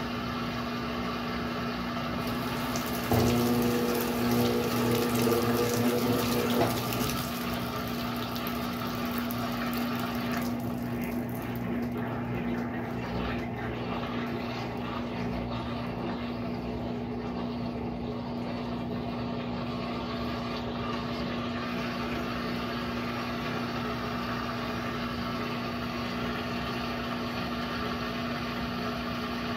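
Brastemp Sexto Sentido 8 kg washing machine running mid-cycle: a steady hum with water flowing. A louder pump-like hum starts about three seconds in and eases off at about seven seconds.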